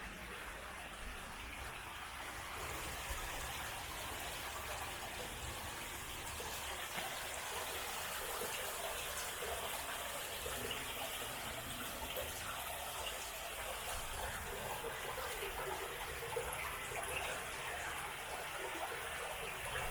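Small stream running out across the beach into the sea: a steady rush of flowing water, with a low rumble underneath.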